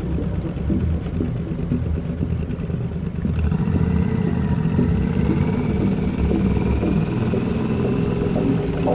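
Motorcycle engine running steadily while riding, a little louder and brighter from about three and a half seconds in.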